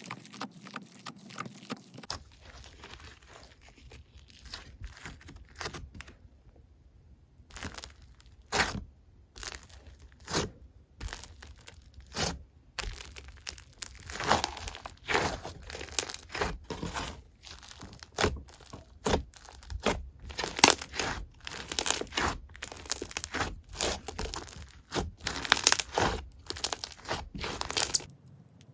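Slime being squished, stretched and pressed by hand, making irregular crackling and popping clicks. The clicks are sparse at first and get busier from about eight seconds in.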